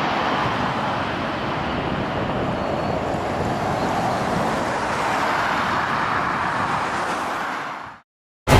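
Steady distant roar of an Airbus A380's jet engines, fading out about eight seconds in. Music begins right at the end.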